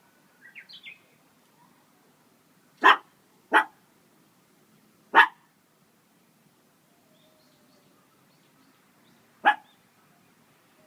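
A dog barking four times in single short barks, the last one after a longer pause. A small bird chirps faintly in a quick run of four notes just before the barks.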